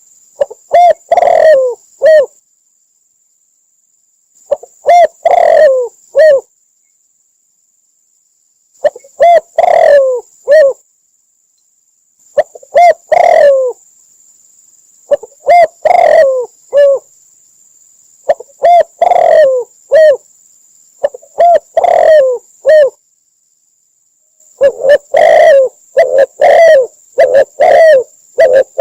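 Spotted dove cooing loudly in repeated phrases of three to five short coos, one phrase every three to four seconds, the phrases coming closer together near the end. It is a recorded call of the kind played as a lure for trapping doves.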